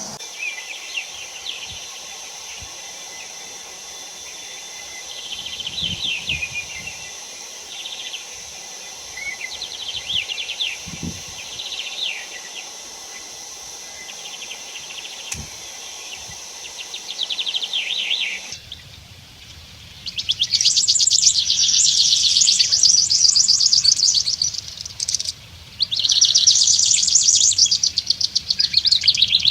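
Rainforest ambience: birds giving short chirping trills over a steady high insect hum. About two-thirds of the way through, the sound changes to a loud, fast-pulsing chirring that comes in two long stretches with a brief break between them.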